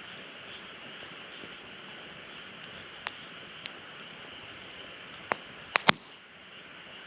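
Wood fire burning in a fire-pit stand with a steady hiss, crackling with a few sharp pops; three louder pops come close together a little past the middle.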